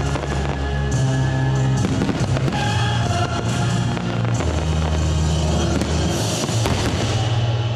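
Fireworks bursting with many bangs and crackles, heard together with loud music that has deep held bass notes and drums.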